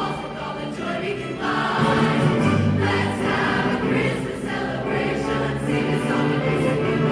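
A large combined school choir singing a Christmas song with accompaniment, growing louder about a second and a half in.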